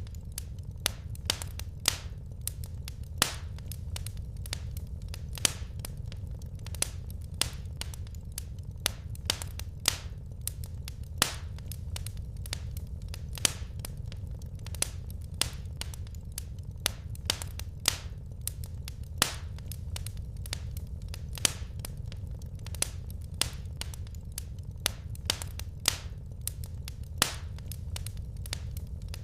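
Wood fire crackling in a fireplace: sharp, irregular snaps and pops, about one or two a second, over a low steady rumble.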